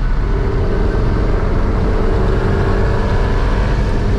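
Car driving at a steady pace: a loud, even engine and road rumble with a faint steady drone, no clear revving up or down.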